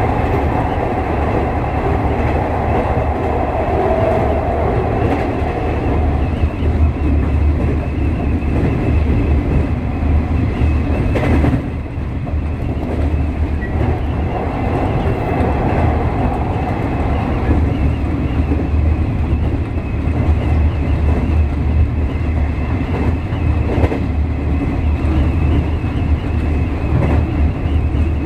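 JR East 201 series electric train running at speed, heard from the driver's cab: a steady low rumble of wheels on rail mixed with wind rushing past the cab window. About eleven and a half seconds in there is a single short sharp noise.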